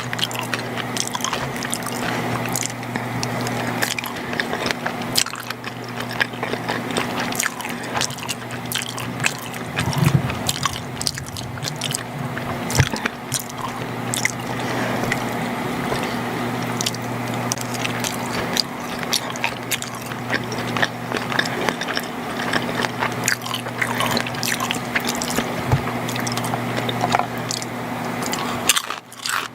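Close-miked wet, squishy chewing of macaroni and cheese, with many small sharp mouth clicks, over a steady low hum.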